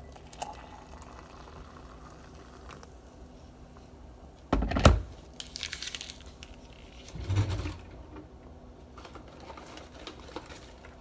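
Kitchen handling sounds while hot chocolate is made: a loud knock about four and a half seconds in, a short hissy rustle just after, a duller thud a couple of seconds later, and scattered light clicks.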